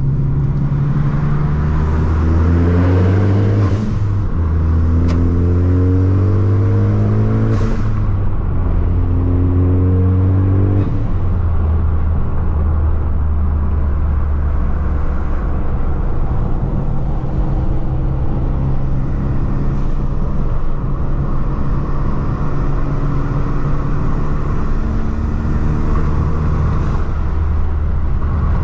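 Ford Focus ST's turbocharged four-cylinder engine pulling at full throttle: the revs climb in three sweeps, with gear changes about four, eight and eleven seconds in, then settle into a steady drone at cruising speed.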